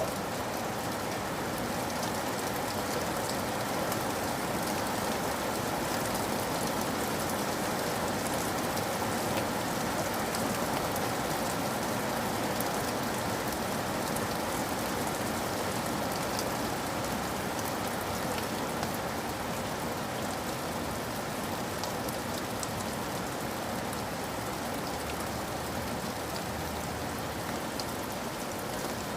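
Steady rain falling, with many individual drops ticking through the even hiss.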